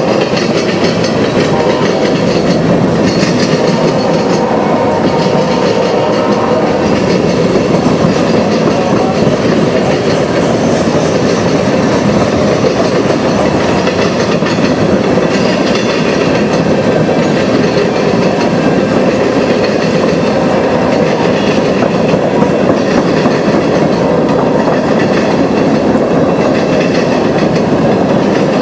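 Freight train cars rolling steadily past, steel wheels clattering over the rail joints.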